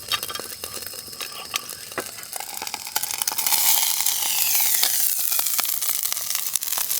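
Gyoza sizzling and crackling as they fry in a lidded pan, with many small pops; about three seconds in the sizzle swells into a louder, steamy hiss.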